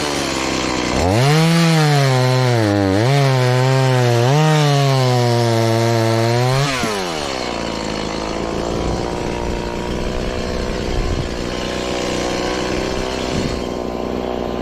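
Stihl MS180 two-stroke chainsaw revving up about a second in and running at full throttle through a cut, its pitch dipping twice as the chain bites into the wood. About halfway through it drops back to a steady idle.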